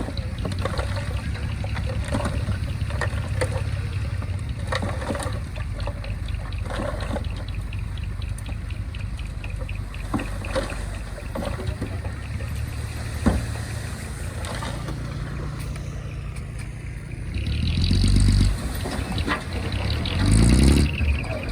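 Diesel engine of heavy earthmoving equipment running steadily, with scattered knocks and clanks over it and two louder surges near the end.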